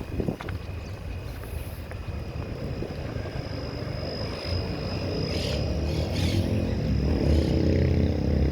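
Motor vehicle engine approaching along the street, growing steadily louder through the second half, with a thin steady high-pitched tone underneath.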